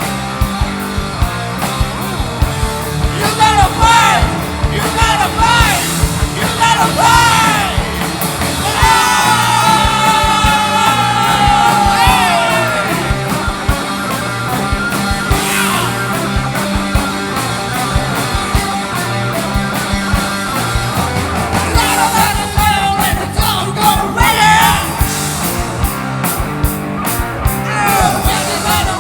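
Live rock band playing, with drums, bass and electric guitar under a lead vocalist singing and shouting. About nine seconds in, the singer holds one long note that slides downward.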